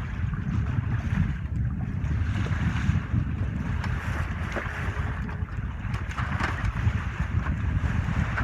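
Wind buffeting the microphone aboard a sailboat at sea, with water washing past the hull.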